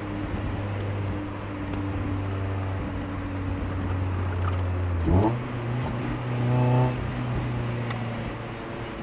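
Mazda Miata NB's 1.8-litre four-cylinder engine and exhaust running at steady low revs, then about five seconds in the revs jump suddenly and climb for about a second and a half under acceleration before dropping back at a shift to a steady cruise.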